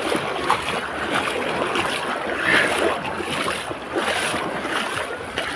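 Beach ambience: steady wash of surf with wind noise on the microphone, and faint scattered sounds in the background.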